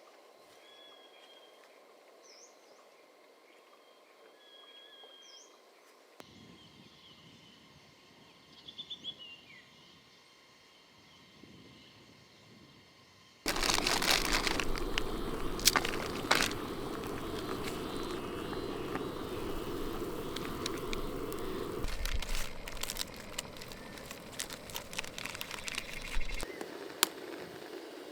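Birds chirping now and then over quiet outdoor ambience. About halfway through, a much louder steady crackling noise starts abruptly, full of sharp clicks and pops.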